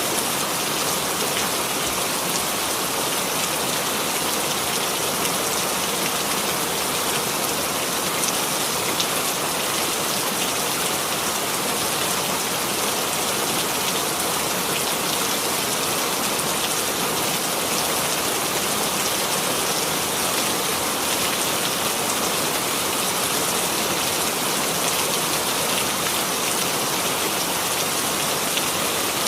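Steady rainfall, an even hiss of rain on a surface with fine drop patter and no change in intensity.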